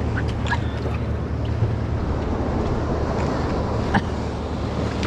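Boat engine idling with a steady low hum, under wind and water noise. A few light ticks come near the start, and a sharp knock comes about four seconds in.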